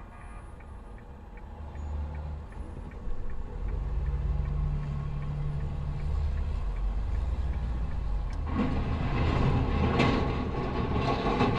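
A motor vehicle's engine running with a steady low rumble. About eight and a half seconds in, a louder rushing noise with short knocks joins it.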